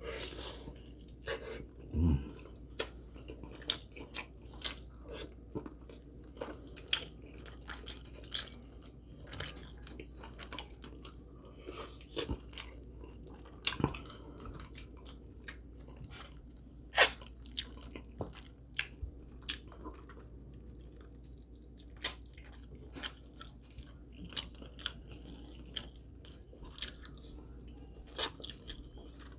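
Close-miked chewing of rotisserie chicken in a mukbang: a man's mouth biting and chewing, with irregular clicks and a few louder ones past the middle.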